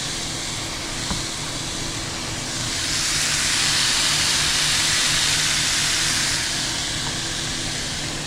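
Chicken breasts frying in a pan, a steady sizzle that swells louder for a few seconds in the middle before settling back.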